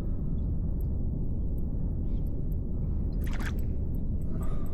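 Steady low rumble of wind buffeting the microphone on open water, with a couple of faint ticks a little over three seconds in and near the end.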